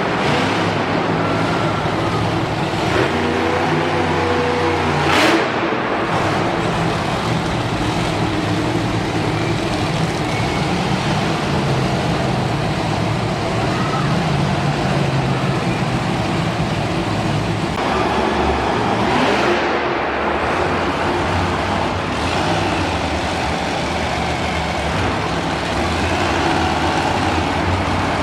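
Monster truck engines running loudly and changing pitch as the trucks rev and drive, with a sharp crack about five seconds in.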